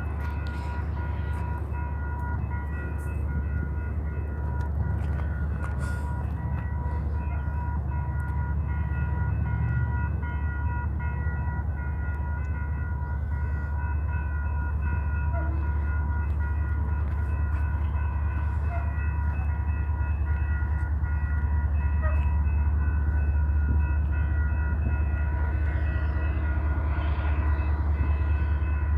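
BNSF freight train's diesel locomotives running as the train moves forward: a steady low rumble with a constant high whine, slowly growing a little louder.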